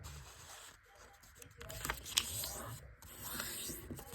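A square sheet of origami paper being folded and creased by hand: rustling and crinkling, with a couple of sharp crackles about two seconds in.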